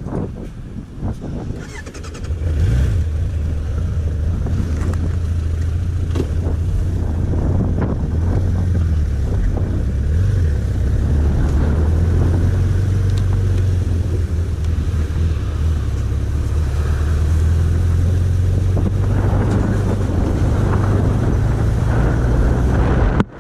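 Motorcycle engine running steadily with a low, even hum, coming in about two seconds in and cutting off abruptly near the end.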